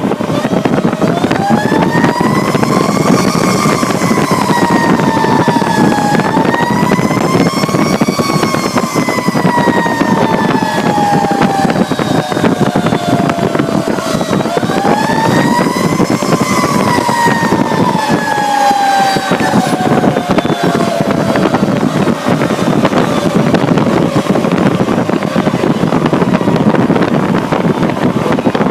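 Fire truck's mechanical siren winding up and slowly coasting down three times, heard over the heavy, steady engine and road noise of the ladder truck running to a call.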